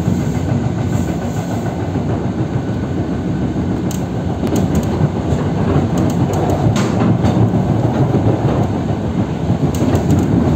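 Suburban electric train running at speed, heard from inside the car: a steady low rumble of wheels on rails, with scattered clicks of wheel clatter from about four seconds in.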